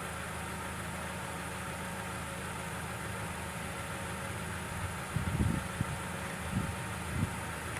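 Small Briggs & Stratton push-mower engine running steadily at idle, with a few short clunks about five to seven seconds in.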